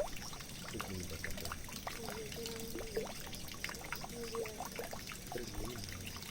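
Running water trickling and pouring steadily, dotted with many small splashes and drips, with a few short wavering gurgles.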